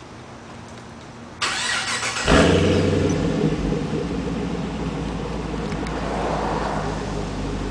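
Pontiac G8 with a Solo Mach Shorty balanced cat-back exhaust starting: the starter cranks for about a second, the engine fires with a loud flare, then settles into a steady idle.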